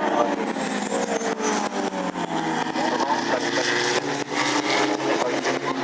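Several sports race cars' engines running on the circuit at once, their pitch dropping over the first couple of seconds and then holding steady.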